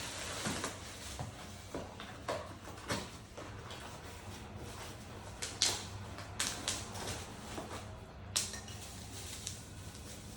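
Coffee-making tools and their packaging being handled during an unboxing: irregular clicks, taps and short rustles over a steady low hum. The two sharpest clicks come about halfway through and near the end.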